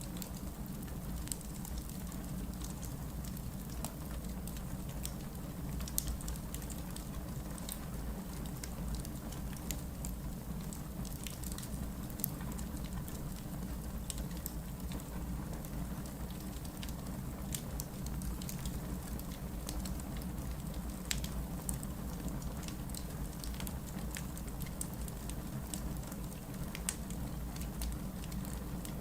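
Wood logs burning in a fireplace: a steady low rumble of flame with irregular sharp crackles and pops throughout.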